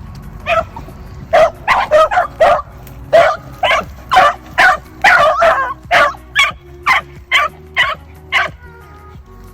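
Hunting beagles barking in a quick run of about twenty short, loud calls, some overlapping, giving mouth while running a rabbit.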